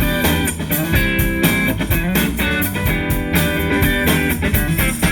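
Live band playing a song intro with guitar strumming over bass and drums, before the vocals come in.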